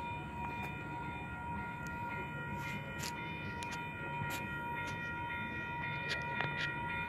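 Union Pacific double-stack intermodal train's well cars rolling past, a low rumble with a steady high whine and scattered clicks and clanks from the wheels.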